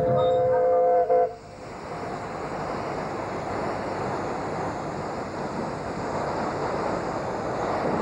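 Narrow-gauge steam locomotive whistle sounding one two-note blast of about a second and a half, cutting off sharply, followed by a steady rushing noise.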